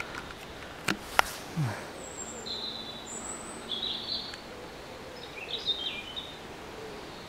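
Birds chirping in short, high calls, with two sharp clicks about a second in.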